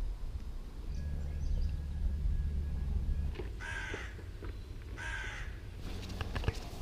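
A crow cawing twice, two harsh calls about a second and a half apart, over a low rumble in the first half.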